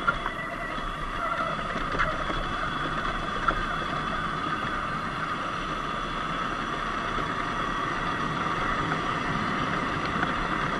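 Sur-Ron Light Bee electric dirt bike riding at a steady pace: a steady electric motor whine mixed with wind and tyre noise on a dirt road.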